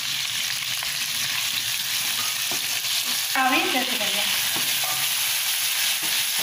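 Shallots, green chillies and curry leaves sizzling in hot oil in a frying pan, with a spatula stirring and scraping through them. Chopped bottle gourd is tipped in partway through.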